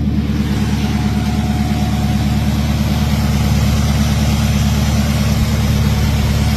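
A 1957 Chevrolet 210's 383 V8 idling steadily with an even, pulsing beat.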